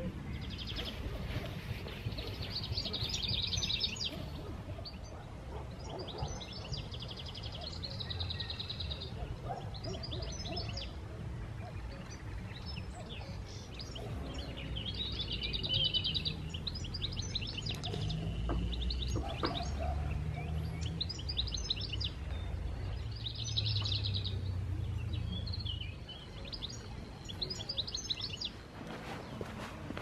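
Songbirds singing: repeated short trilled phrases and quick falling chirps every second or two, over a steady low rumble.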